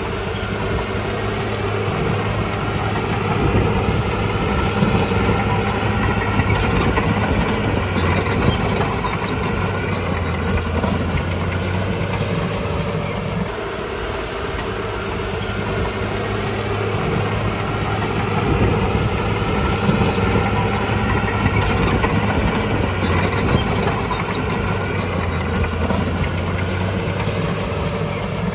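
Crawler bulldozer's diesel engine running steadily, with a deep, continuous drone; its note changes about halfway through, and a few metallic clanks from the tracks and blade are heard.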